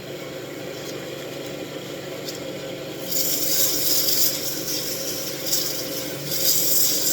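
Wood lathe running with a steady hum; about three seconds in, a loud hiss of sandpaper rubbing against the spinning wooden wand starts, easing off briefly near the end before picking up again.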